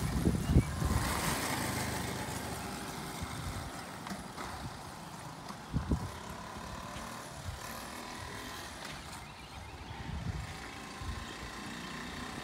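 A 1978 Honda Z50A mini trail bike's small single-cylinder four-stroke engine running as the bike is ridden in first gear. It is loudest at the start and then fades. There is a brief thump about six seconds in.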